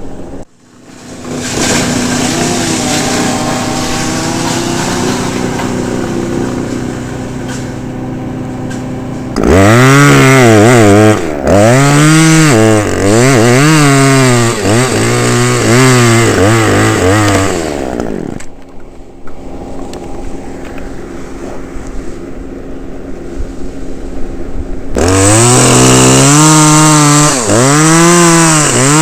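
Chainsaw running at high revs, then cutting in two spells with its engine note dipping and recovering about every second and a half, settling to a steadier, quieter run in between.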